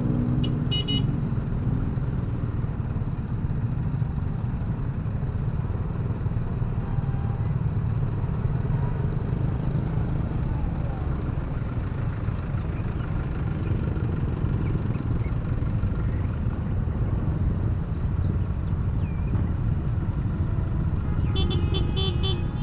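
Motorcycle running steadily on the move, its low rumble mixed with wind noise on the rider's microphone. A few short high beeps sound near the end.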